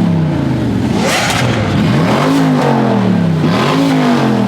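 Car engine being revved in short blips: the pitch falls off from an earlier rev, then climbs and drops back twice.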